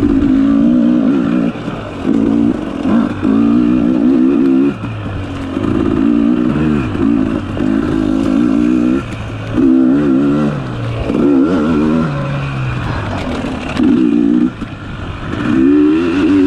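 Dirt bike engine revving hard in short bursts, the throttle opened for a second or two and then rolled off with a dip in pitch, over and over.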